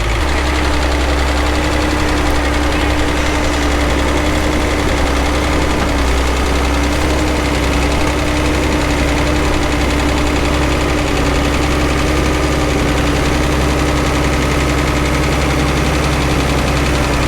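Tractor engine running close by at a constant speed, a loud, even drone with a steady hum.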